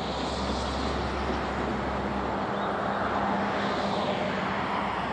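Steady outdoor noise carrying the low, even hum of a vehicle engine running, which fades out about halfway through.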